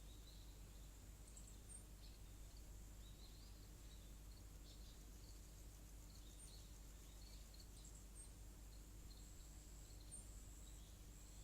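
Faint rural evening ambience: a steady, very high-pitched insect drone with many short, scattered high chirps over it, and a low steady hum underneath.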